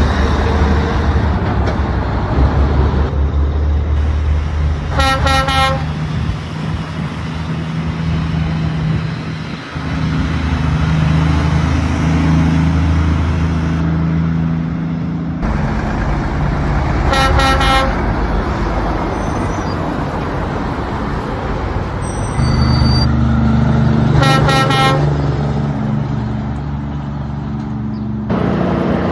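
Heavy truck engines running steadily, with three short horn honks about five, seventeen and twenty-four seconds in.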